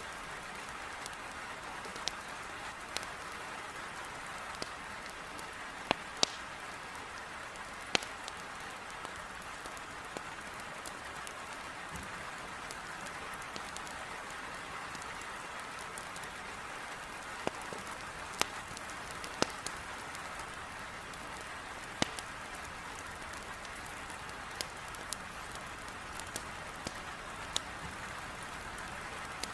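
Steady heavy rain hissing against a window, with the sharp, irregular pops and snaps of burning firewood crackling in a fireplace scattered through it.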